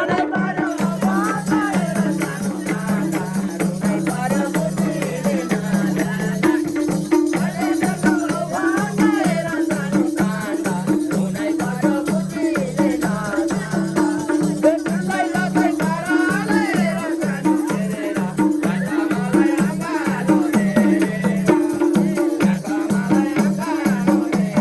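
Instrumental break in live Nepali dohori folk music: a steady low drone chopped into a fast even pulse, a wavering melody line above it, and a shaker-like rattle.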